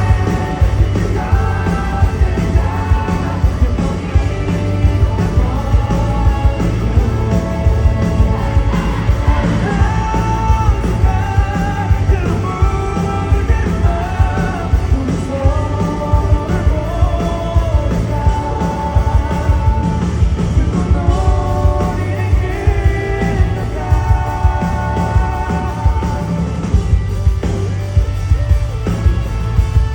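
Live rock band playing a song, with a sung vocal line over bass, guitar and a drum kit hitting steadily.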